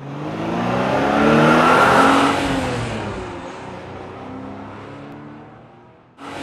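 A car engine revs up, loudest about two seconds in, then winds down and fades away. Near the end the sound cuts off sharply and a fresh engine sound starts.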